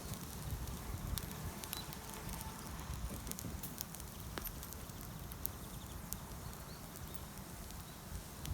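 Wood campfire burning quietly, with sparse small crackles and pops scattered over a low steady rumble.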